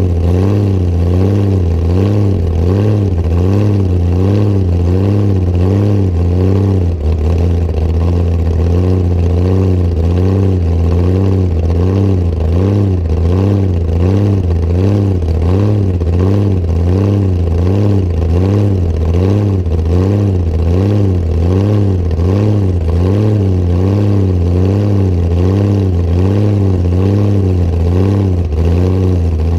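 Hot rod coupe's engine running steadily with a deep, even lope that rises and falls about once a second, and a brief drop about seven seconds in.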